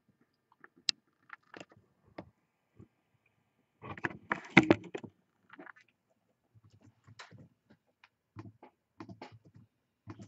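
Scattered small clicks and knocks, with a short, louder burst of rustling and handling noise about four seconds in.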